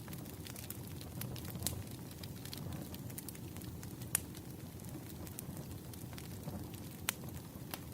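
Campfire burning: a steady low rush with scattered sharp crackles and pops, two louder pops about four and seven seconds in.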